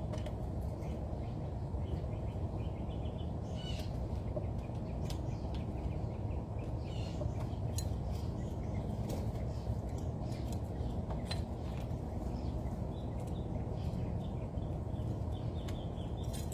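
Small birds chirping here and there in short high calls over a steady low background rumble.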